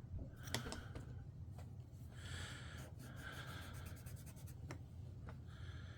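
Small 3 mm plywood jigsaw puzzle pieces being handled and pulled apart: faint scattered clicks with a few short scrapes of wood rubbing on wood.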